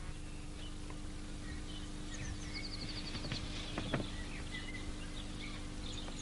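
Faint birdsong, scattered chirps and a quick trill, over a steady low hum.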